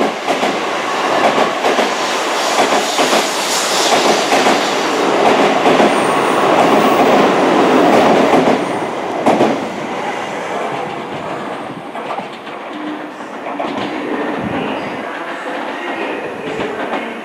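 N700-series Shinkansen high-speed train running past along the platform with a loud rushing and clattering of wheels and bodywork, then dropping away after about ten seconds as the last cars clear.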